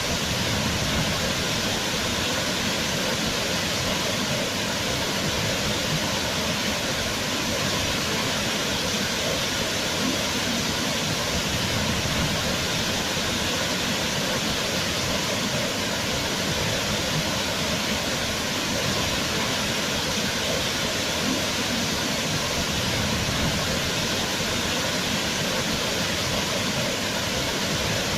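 Waterfall: a steady, loud rush of falling water with no change.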